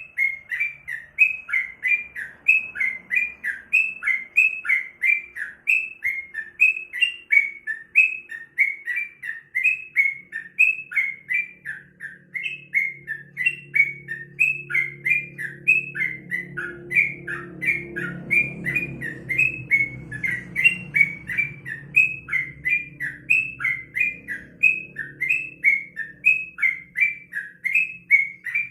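Yellow-vented bulbul (crukcuk) singing on and on: a fast, even string of short chirpy notes, about two or three a second, with a faint low hum in the middle.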